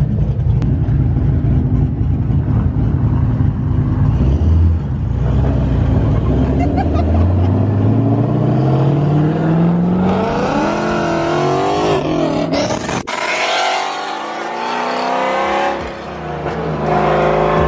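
Sports car engines accelerating hard past at close range: a deep exhaust rumble that climbs steadily in pitch for several seconds, then revving that rises and falls, with a short break about two-thirds of the way through.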